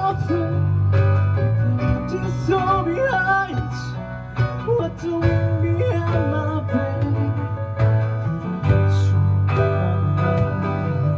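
Live band playing: acoustic guitar strumming over a steady bass line, with keyboard and a melodic line wavering in pitch above.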